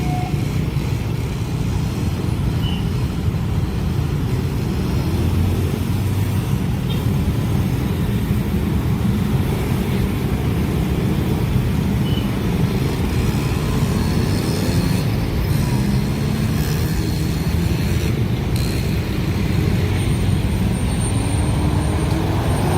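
Long train running past at speed, a steady heavy low rumble of wheels on rails.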